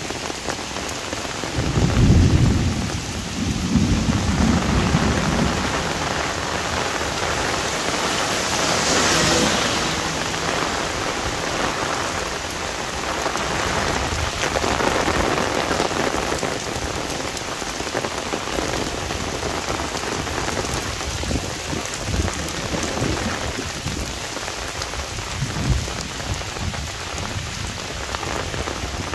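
Heavy monsoon rain falling on an umbrella and the ground, a dense steady hiss, with low rumbles of thunder about two and four seconds in.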